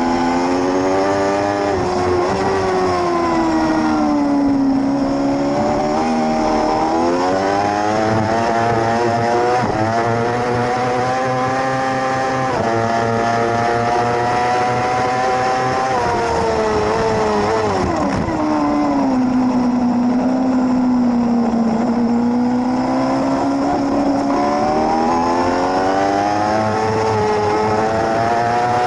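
600cc racing motorcycle engine at high revs, its pitch winding up and down through gear changes, acceleration and braking. It drops steeply about eighteen seconds in on downshifts, then climbs again.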